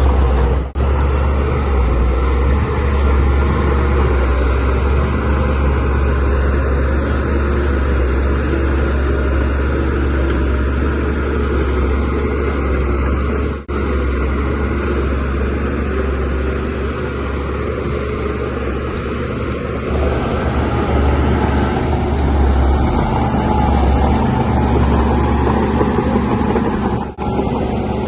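Shantui DH17C3Pro bulldozer's diesel engine running steadily at working speed, with a deep low rumble. The sound cuts out for an instant three times.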